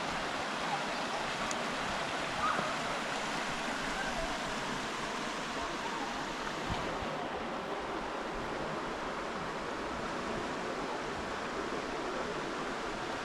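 River water flowing steadily, an even rushing noise of the current.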